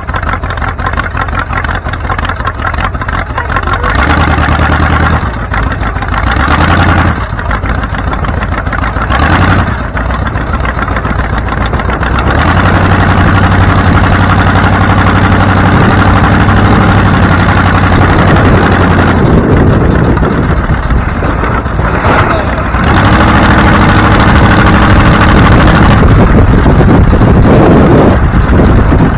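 Car engine running while driving, over a steady road-noise rush. The engine note changes in steps several times.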